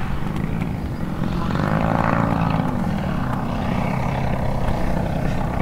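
100cc gasoline engine and propeller of a giant-scale RC aerobatic airplane running in flight, its pitch rising and falling back around two seconds in.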